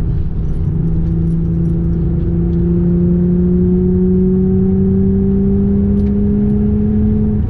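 Car engine under acceleration, its pitch rising slowly and steadily over several seconds, then falling away near the end as the driver comes off the throttle to shift, over a steady low road rumble.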